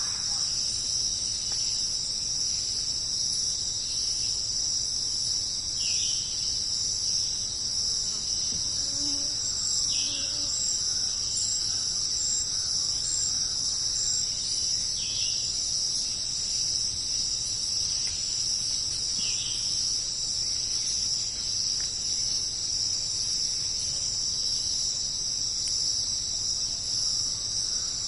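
Jungle insect chorus, a steady high-pitched shrill trill, with a short falling call about every four to five seconds.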